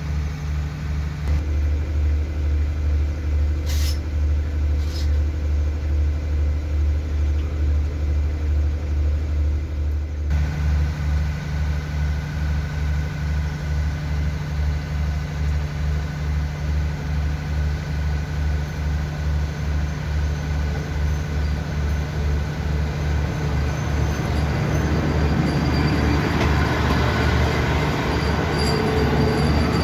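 A diesel train stands with its engine running, a steady low pulsing throb. About two-thirds of the way through, a rising rumble and rail noise builds as a train starts to move.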